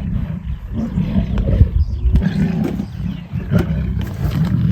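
Lions growling: a loud, deep, irregular rumble with a few sharp clicks among it.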